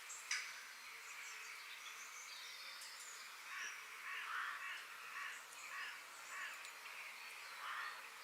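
Forest ambience: a steady high hiss with birds calling, thin high chirps and, from about three and a half seconds in, a string of short harsh calls. A sharp click comes just after the start.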